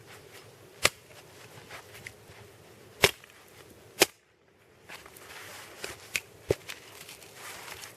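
Axe chopping into a dry log, hewing a thin layer off its outside: four sharp strikes, about a second in, at about three and four seconds, and near six and a half seconds, with lighter knocks between.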